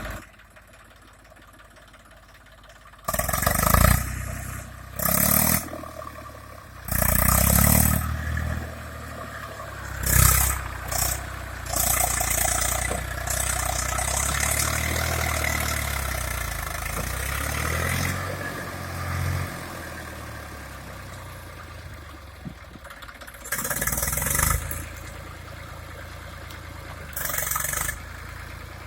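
Eicher tractor's diesel engine revving hard in repeated bursts, then running loud and steady for several seconds before easing back to a low idle, with two more short revs near the end.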